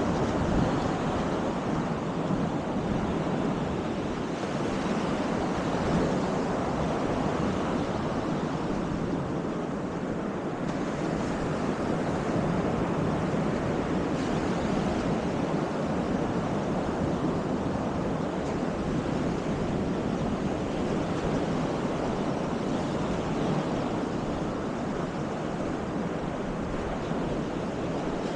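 Baltic Sea surf washing steadily onto the beach, with wind rumbling on the microphone.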